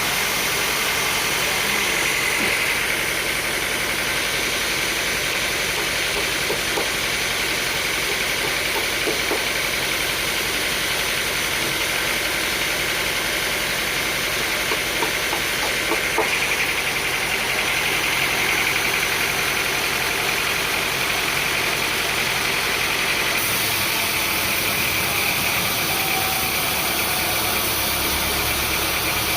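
Sawmill machinery running steadily: an engine-driven saw or mill with a continuous high whine over the engine. The low part of the sound changes near the end.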